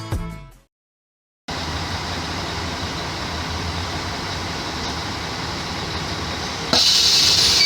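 Intro music fading out, a second of silence, then a Mercedes-Benz O-500MA Bluetec 5 bus's diesel engine running steadily. About seven seconds in, a louder hiss joins the engine.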